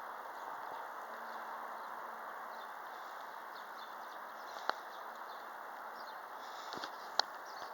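Steady rush of wind, with two sharp clicks, one near the middle and one near the end.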